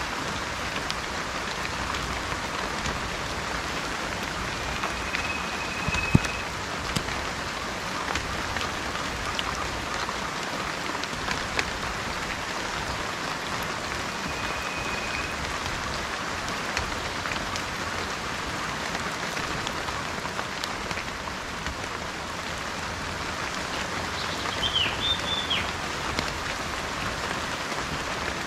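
Steady rain falling on a surface, a dense patter of drops with the odd sharper tick, loudest about six seconds in. A bird calls through it now and then: a couple of short whistled notes and a quick chirp near the end.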